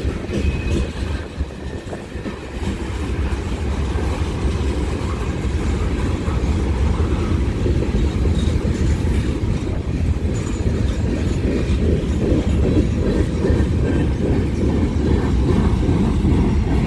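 A train rolling past, its railcars' wheels on the rails making a steady low rumble that builds louder over the first few seconds and then holds.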